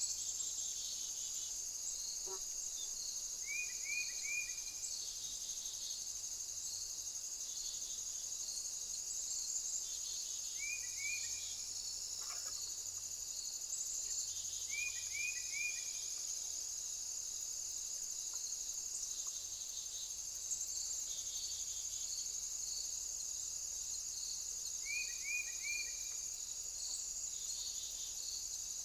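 A steady high-pitched insect chorus, with a bird calling now and then in short runs of three or four quick notes.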